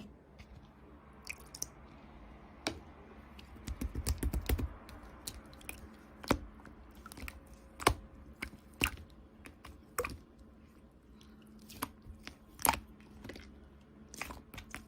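Slime being squeezed and folded by hand, giving off sharp wet clicks and pops, a quick run of them about four seconds in and then single pops every second or so.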